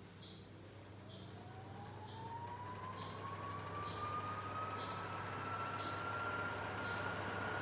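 Boxer BF-12T2 12-inch box fan spinning up. Its motor whine rises steadily in pitch and levels off near the end while the air noise grows louder, with a faint tick about once a second.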